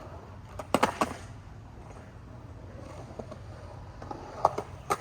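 Skateboard clacking on concrete while practising shove-its: two sharp loud clacks about a second in, then lighter knocks near the end, over a steady low rumble.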